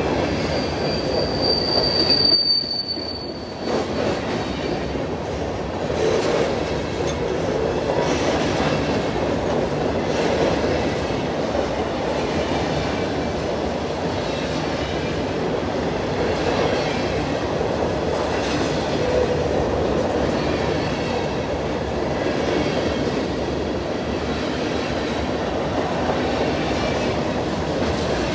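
Freight train of covered hopper cars rolling past, a steady rumble and clatter of steel wheels over the rail joints. A brief high-pitched wheel squeal sounds from about one to three seconds in.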